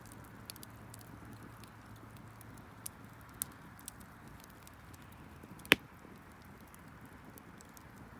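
Garden bonfire of burning wood crackling, with scattered small pops and one loud sharp crack a little before six seconds in, over a steady low hum.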